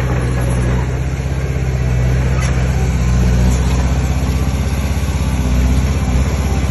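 Heavy diesel engine of earthmoving machinery running steadily with a low, rapid throb, getting a little louder near the end.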